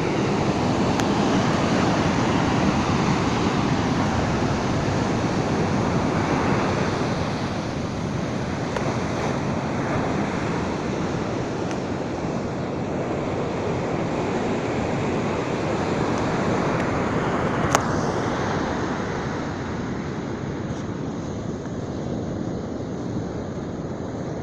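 Storm wind buffeting the microphone over surf breaking on the beach, a steady loud rush of noise. A single sharp click about eighteen seconds in.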